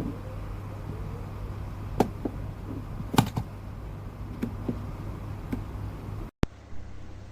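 A few scattered sharp taps or knocks over a steady low hum, the loudest two about two and three seconds in; the sound cuts out abruptly for a moment near the end.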